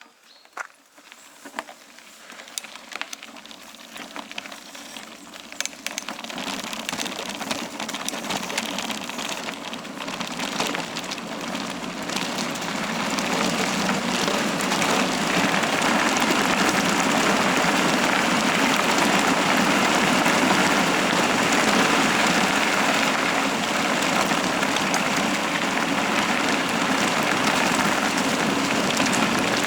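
Bicycle tyres rolling on a forest trail, with wind rushing over the microphone. The noise grows steadily louder for the first dozen or so seconds as the bike picks up speed downhill, then holds steady. Scattered clicks and rattles come through in the first few seconds.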